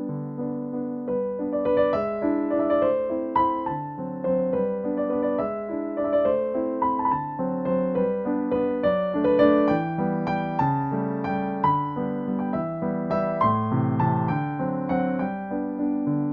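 Background piano music: a soft melody of struck notes over held chords at a gentle pace.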